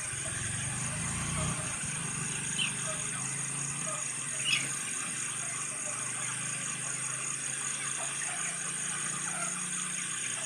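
Broiler chickens in a poultry shed: scattered soft chirps and peeps over a steady background hum, with two sharper high peeps about two and a half and four and a half seconds in.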